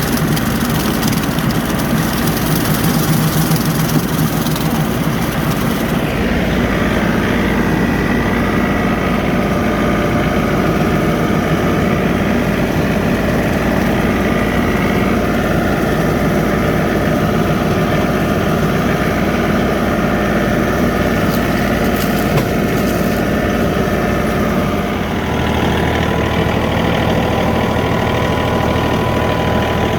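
John Deere 3043D compact tractor's three-cylinder diesel engine running steadily while working a 4-foot bush hog (rotary cutter). The tone of the engine shifts about six seconds in and again near the end.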